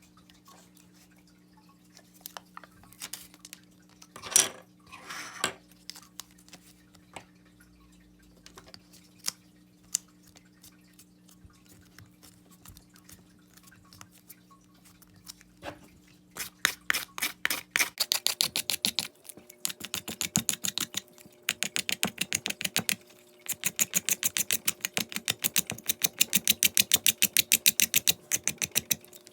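Scattered small clicks and taps from handling a wooden fingerboard, over a steady low hum. A bit over halfway through, the clicks become a fast, continuous rattling run.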